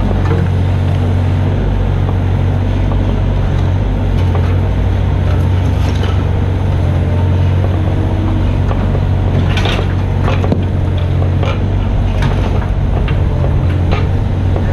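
Mini excavator's diesel engine running steadily, with scattered knocks and clatter from the machine at work, the loudest about six seconds in and again around ten seconds in.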